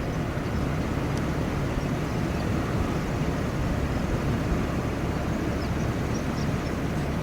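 Steady low outdoor rumble with no single event standing out, and a few faint high chirps scattered through it.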